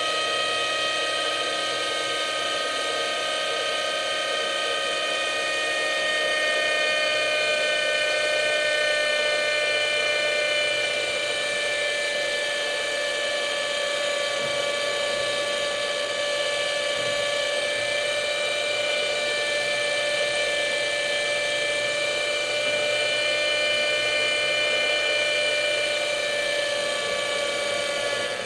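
Hirobo Shuttle radio-controlled helicopter's small nitro glow engine and rotors running in flight, a steady high-pitched whine whose pitch drifts slowly up and down.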